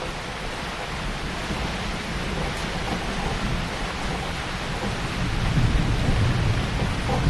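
Heavy rain falling steadily, with a low thunder rumble swelling up in the last couple of seconds.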